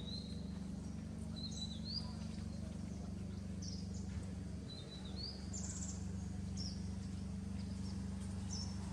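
Birds chirping: short, mostly rising calls, roughly one a second, over a steady low hum that is the loudest thing throughout.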